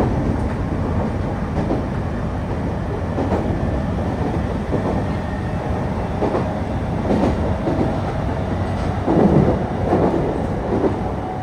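Electric local train running, heard from inside the passenger car: a steady rumble of wheels on rail, with a few clacks over rail joints in the second half.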